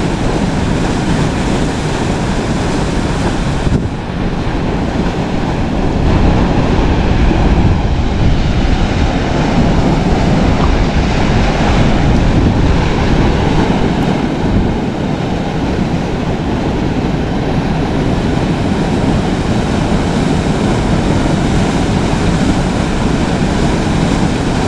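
Steady rushing of a river's flowing water, with wind buffeting the microphone.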